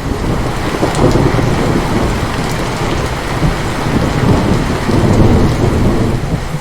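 Heavy rain with a long rolling rumble of thunder that swells and fades throughout, easing briefly near the end.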